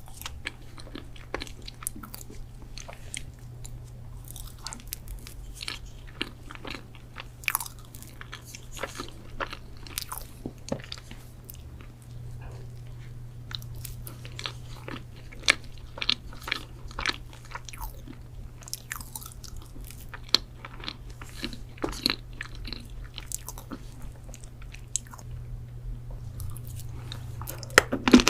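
A person eating close to the microphone: biting and chewing with many sharp, irregular clicks and crunches, over a steady low hum.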